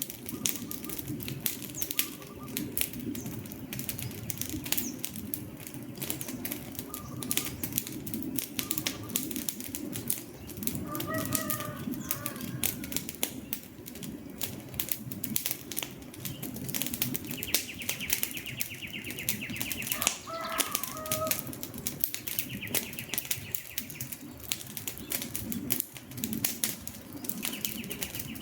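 Wood fire burning, with rapid irregular crackles and pops over a steady low rumble of the flames. Brief bird calls sound about 11 seconds in and again around 20 seconds, and a buzzy high trill comes and goes in the second half.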